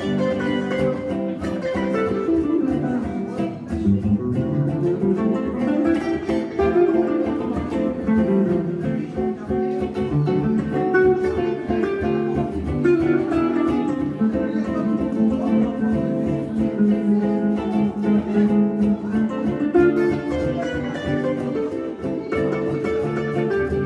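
Jazz guitar duo playing a swing tune on electric hollow-body guitars through a PA system.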